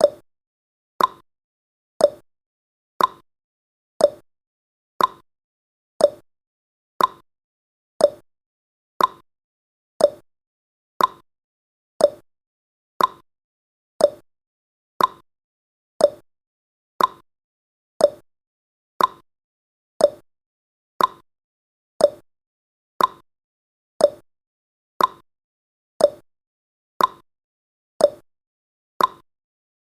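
Countdown timer's clock-ticking sound effect: one short, sharp tick every second, alternating higher and lower in pitch like a tick-tock.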